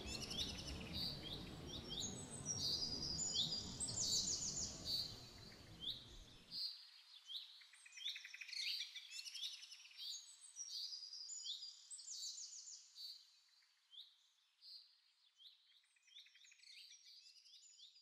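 Small birds chirping, many short quick calls repeating over and over. A low background noise underneath stops abruptly about six and a half seconds in, leaving the birdsong alone, which grows fainter toward the end.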